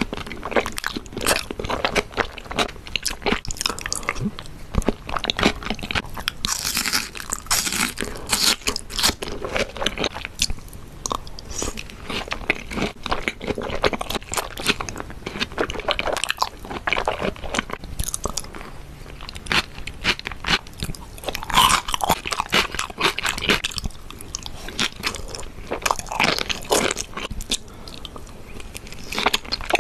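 Close-miked chewing and biting of thick raw salmon sashimi: wet mouth sounds made of many quick clicks, going on without a break.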